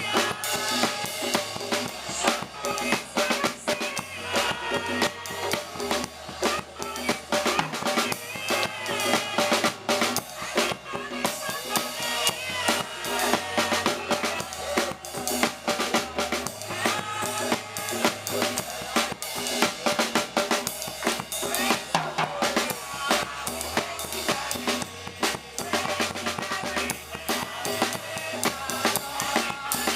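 Live gospel band music driven by a busy drum kit, with snare and bass drum strokes over a moving bass line.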